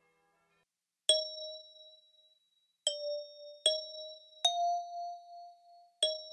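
Five bell-like chime notes struck one at a time, starting about a second in, each ringing on briefly and picking out a slow melody at slightly different pitches: the opening of a song's instrumental arrangement.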